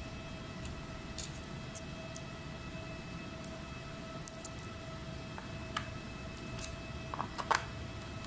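Steady low hum with a thin, faint steady tone, and scattered light clicks and taps, the loudest few close together near the end.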